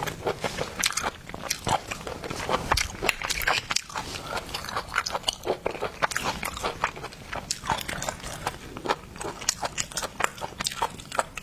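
Shell-on seafood being bitten and chewed close to the microphone: a dense, irregular run of crunches and clicks as shells crack.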